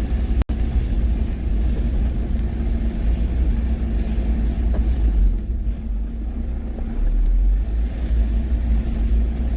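Self-built camper van driving, a steady low rumble of engine and road noise. The sound drops out for an instant about half a second in.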